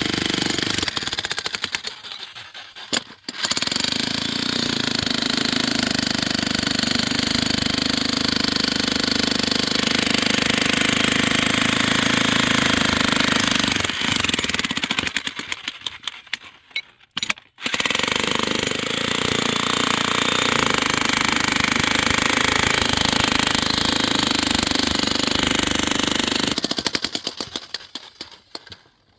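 A loud machine with a rapid, jackhammer-like pulsing runs in long stretches. It cuts out briefly twice, about two seconds in and again past the middle, then dies away near the end.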